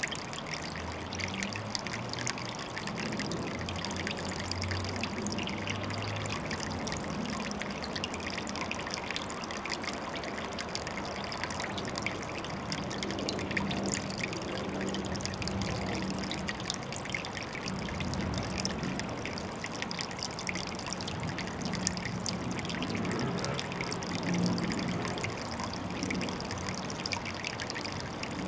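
Water trickling and splashing steadily into a pond.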